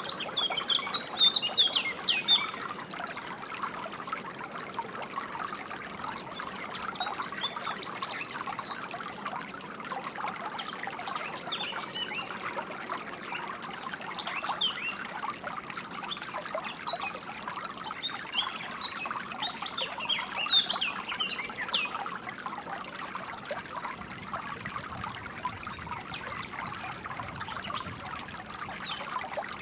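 A stream or small waterfall flowing steadily, with several songbirds chirping and singing over it in short, quick phrases, busiest near the start and again about twenty seconds in.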